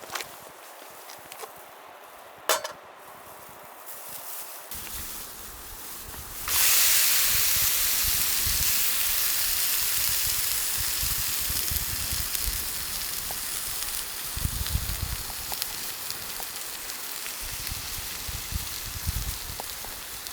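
Food sizzling in a hot pan over a wood-burning stove: the sizzle starts suddenly about six seconds in and slowly dies down, with small crackles. Two sharp clicks come before it.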